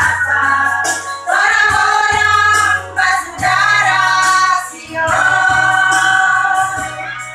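Women's choir singing long held notes in phrases, over a steady low instrumental accompaniment.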